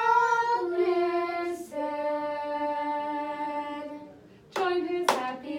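A singing voice in a children's music lesson sings a slow melody that steps downward and settles on a long held note. A few short, sharp sung notes or claps come near the end.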